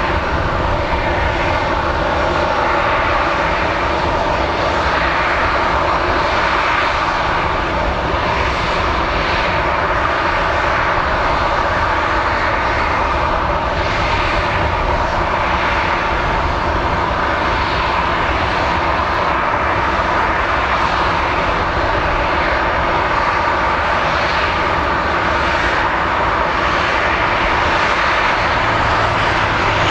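Aircraft engines running steadily at close range, a constant dense noise with no rise or fall.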